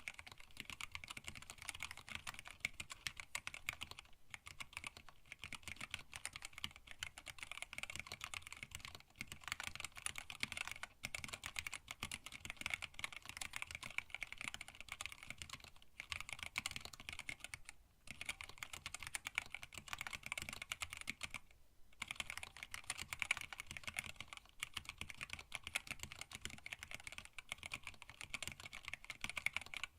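Continuous fast typing on a hand-wired split mechanical keyboard with Tealio linear switches, blank PBT keycaps and an acrylic case, with a few short pauses between bursts.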